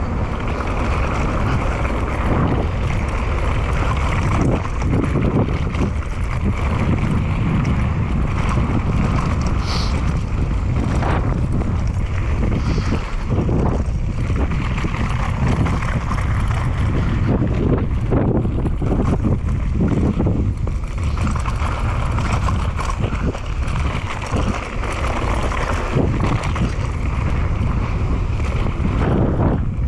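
Wind buffeting the microphone and mountain-bike tyres rolling over a dirt trail during a steady downhill ride, a continuous rushing noise with rattling from the bike.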